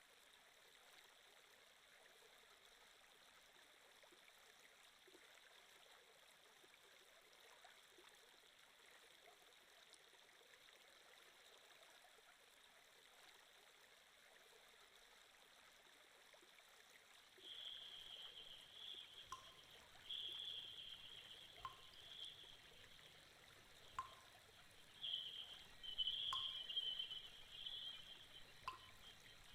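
Faint flowing-water sound effect, like a trickling stream. About two-thirds of the way in it grows louder and more uneven, with a soft click every couple of seconds.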